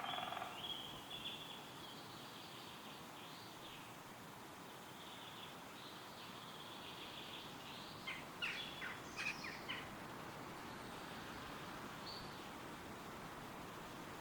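Wind rustling steadily through forest trees while small songbirds sing thin, high phrases, with a quick burst of sharp bird notes about eight to ten seconds in.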